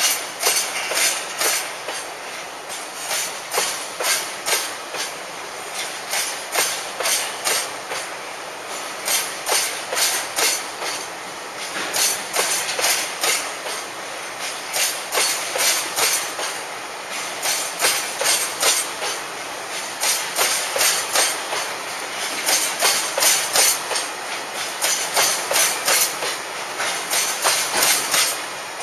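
Train of Taki 1000 petroleum tank wagons rolling past at low speed as a freight train pulls out, the wheels clacking over rail joints in a steady, repeating clickety-clack.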